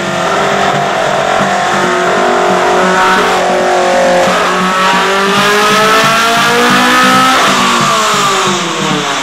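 Honda S2000's engine pulling hard up through the revs on a chassis dyno. Its pitch climbs steadily for about three seconds, then falls quickly as the throttle closes near the end.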